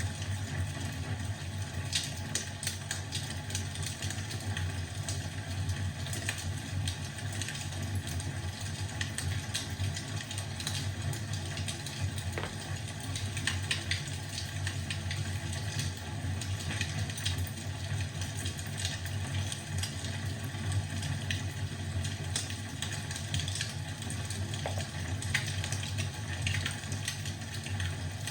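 Crackling fireplace: a low, steady rumble with frequent, irregular sharp pops and crackles.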